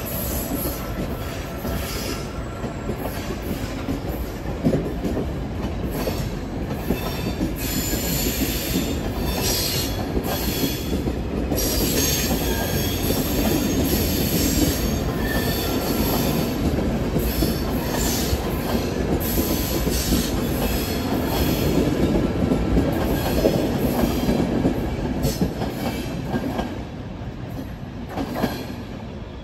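Passenger coaches of a loco-hauled train rolling past as the train pulls out, with wheels squealing on and off and clattering on the track. The sound fades near the end as the last coach moves away.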